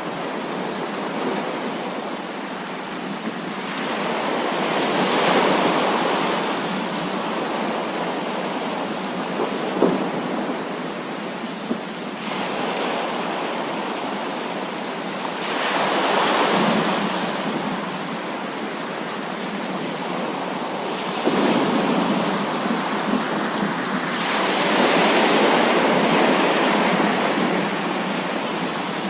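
Heavy rain falling steadily, with several rolls of thunder that swell and fade: one a few seconds in, one around the middle, and a longer one near the end.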